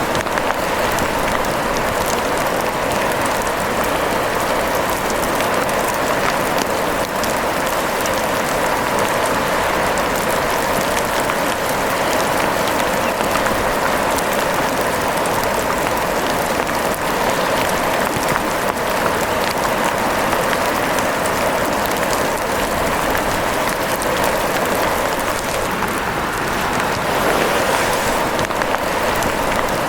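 Steady rain falling, a dense even patter of drops that holds at one level throughout.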